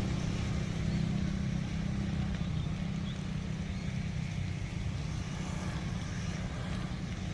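Garuda Indonesia airliner's jet engines giving off a deep, steady low rumble of jet blast, easing slightly toward the end.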